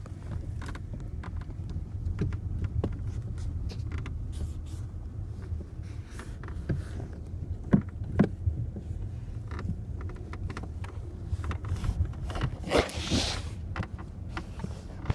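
Car cabin with a steady low rumble, and irregular short creaks and clicks from around the driver's door. There is a brief rush of noise about thirteen seconds in.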